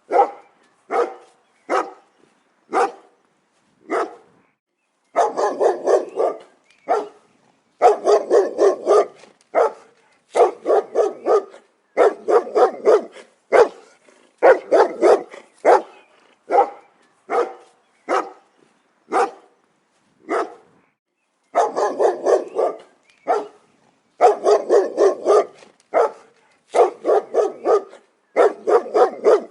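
A dog barking repeatedly: short single barks and quick runs of barks, with brief pauses between runs.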